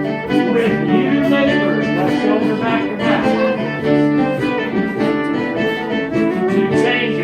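Live acoustic string band playing an English country dance tune: a fiddle carries the melody over plucked strings, with a steady dance rhythm.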